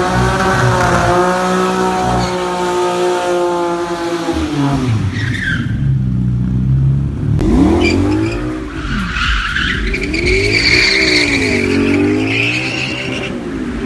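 Car engine held at high revs, dropping about five seconds in, then revving up and down again and again as the car powerslides, with tyres squealing on the tarmac through the second half.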